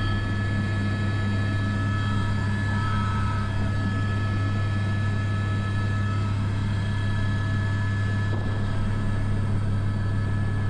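Airbus AS350 B3 (H125) helicopter in flight, heard from the cockpit: its rotor and turbine run steadily, a constant low drone with a steady high whine over it.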